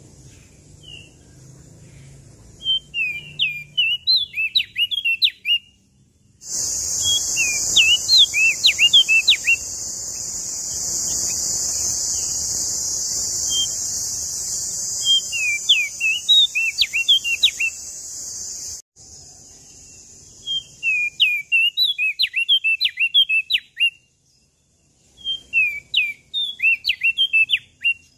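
Prenjak daun songbird singing repeated short bursts of quick, high, chirping whistle notes, about two seconds each, with pauses between them. A loud steady high hiss cuts in about six seconds in and stops suddenly about nineteen seconds in.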